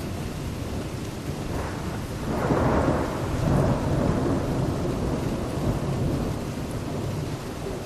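Thunder rumbling over steady rain: the rumble swells about two seconds in, peaks, then slowly rolls away.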